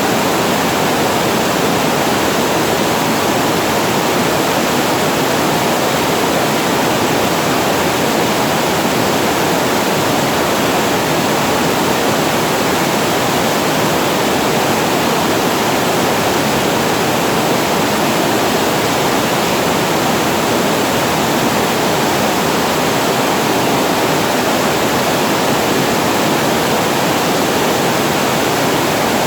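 Water falling over a reservoir's storage weir: a loud, steady, unbroken rush.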